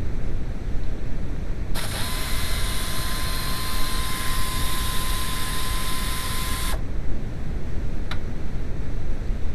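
Steady low mechanical rumble, as from a running engine, with a hiss and a steady high whine that starts about two seconds in and stops abruptly about five seconds later.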